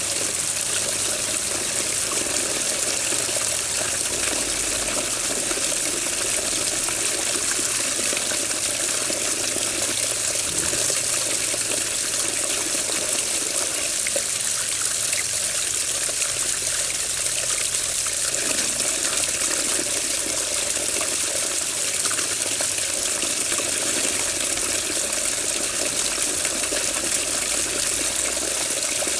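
Running water, flowing and splashing steadily without pause.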